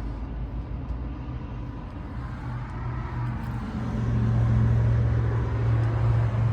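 2002 Trane XB10 central air conditioner running, its Climatuff reciprocating compressor giving a steady low hum under the noise of the condenser fan; the hum grows louder about four seconds in.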